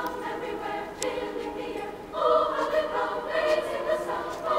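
Background choral music: a choir singing long held notes, louder from about two seconds in.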